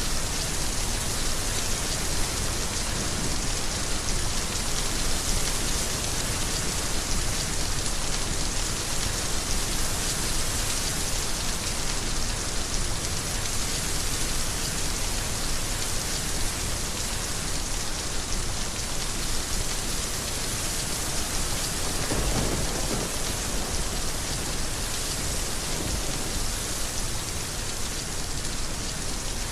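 Heavy rain falling steadily in an even, dense hiss, with a brief low rumble about three quarters of the way through.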